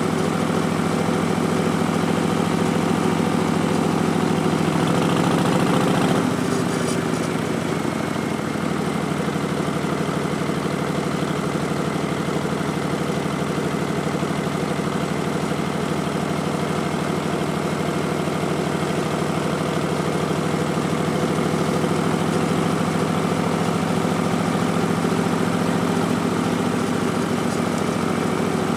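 Harley-Davidson Street Bob's Milwaukee-Eight V-twin, breathing through Vance & Hines Twin Slash slip-on mufflers, running at higher revs. About six seconds in the revs drop, and it settles into a steady idle.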